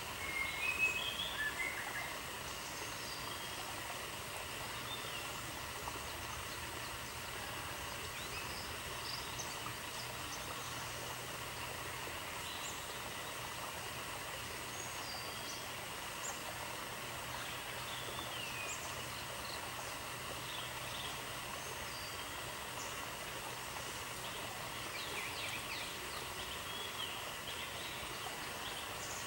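Steady outdoor background hiss with birds chirping now and then, the loudest chirps coming in the first two seconds.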